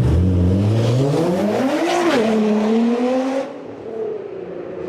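A sports car's engine and exhaust accelerating hard. The pitch climbs for about two seconds, drops once at a gear change and holds steady, then the sound falls quieter and duller about three and a half seconds in.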